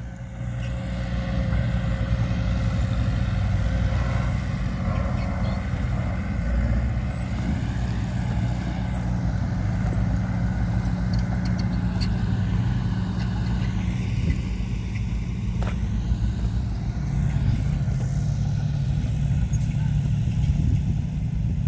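Diesel engine of heavy earthmoving machinery running steadily under load, its pitch shifting a little, with a few sharp clanks.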